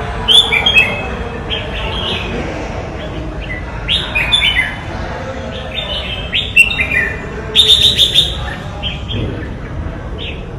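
Red-whiskered bulbul singing: several short phrases of quick, sliding chirping notes with gaps between them, over a steady background hiss.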